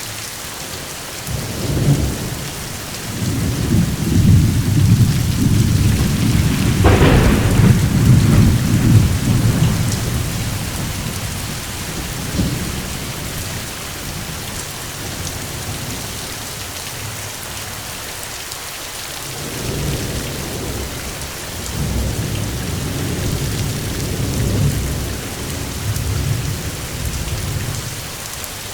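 Steady rain with rolling thunder: a long low rumble through the first third, with a sharper crack about seven seconds in, then a second, gentler rumble in the latter part.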